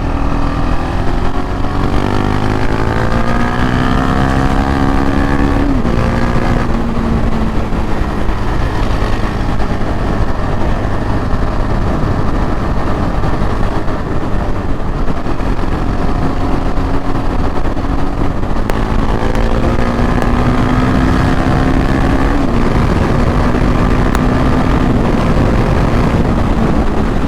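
KTM 690 Duke R's single-cylinder engine pulling hard under acceleration, its pitch rising and then dropping at an upshift, running steadier for a while, then rising again to a second upshift. Steady wind rush on the microphone runs underneath.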